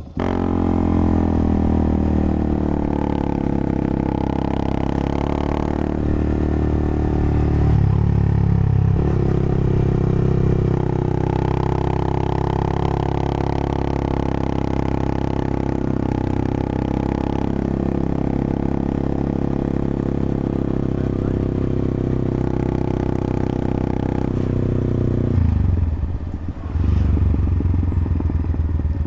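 Yamaha XSR155's single-cylinder engine running under way at a fairly steady pitch. Its note shifts about a third of the way in and dips briefly near the end.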